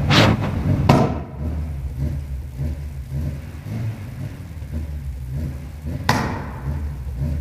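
Car exhaust popping: sharp bangs at the start, about a second in and again near the end, over the engine's low rumble in between.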